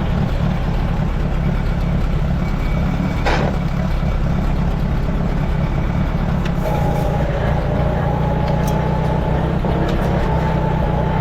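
1948 Allis-Chalmers C tractor's four-cylinder engine running steadily under belt-pulley load, driving a feed grinder. A single sharp knock comes about three seconds in. A steady whine joins a little past halfway and holds.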